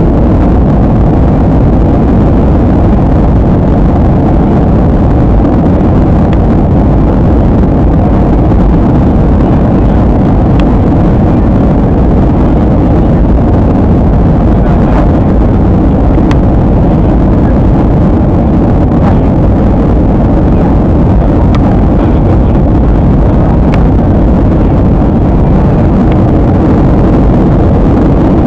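Airliner cabin noise in flight: a steady, loud, low rumble of engine and airflow heard from inside the cabin, with a few faint ticks.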